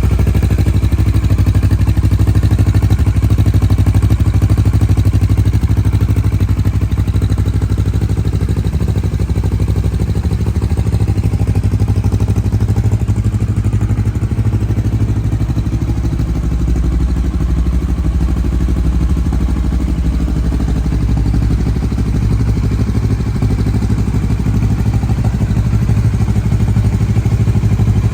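Kawasaki Versys 650's parallel-twin engine idling steadily.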